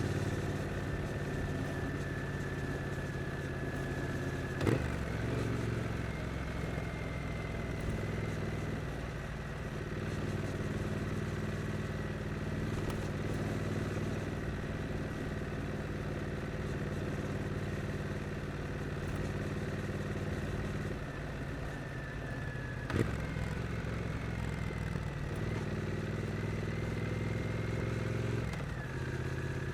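Triumph Street Twin's 900 cc parallel-twin engine running at low, fairly steady revs in easy city riding, its note shifting a few times. Two sharp clicks stand out, one about five seconds in and one about 23 seconds in.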